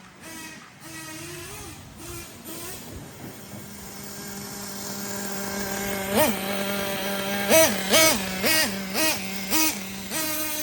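Ofna Titan's .25 nitro engine idling and growing steadily louder, then blipped up in revs six times in quick succession in the second half.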